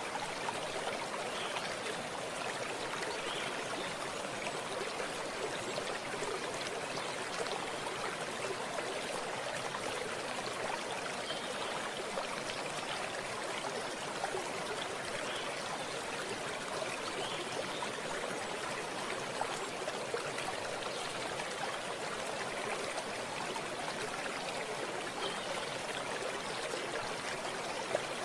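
Stream of running water flowing and trickling steadily.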